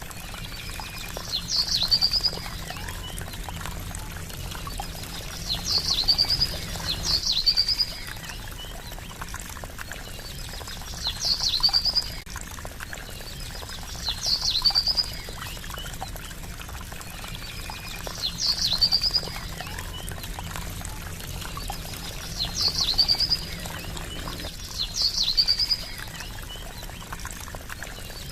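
Water trickling steadily, with a bird call repeating every few seconds: a sharp high note that drops quickly, then a short trill.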